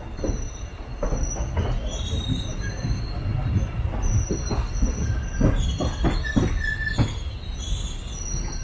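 Train wheels squealing and knocking over rail joints and points as the train rumbles slowly onto a loop line platform, high squeals coming and going over a steady low rumble.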